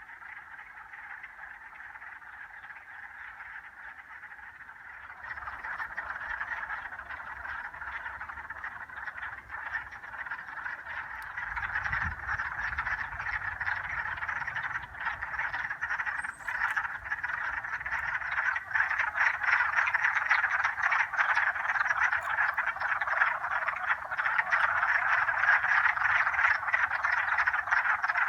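A large chorus of frogs calling, many short calls overlapping into a continuous din that grows steadily louder.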